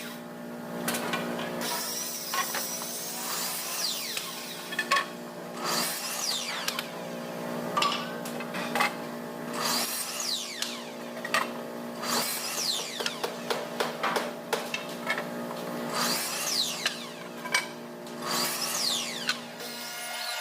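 Power tools working wood in a workshop: a steady machine hum under repeated short knocks and quick squeaks that fall in pitch.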